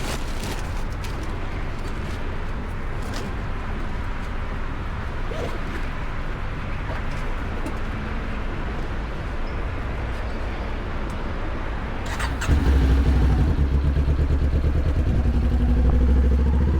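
Motorcycle engine running with a steady low rumble. About twelve seconds in it becomes much louder, and near the end its pitch rises as the bike revs up and pulls away.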